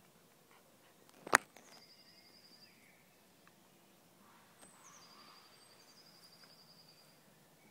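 A single sharp click a little over a second in, then a small bird singing twice, each song a high falling note running into a fast, even trill; the second song is longer.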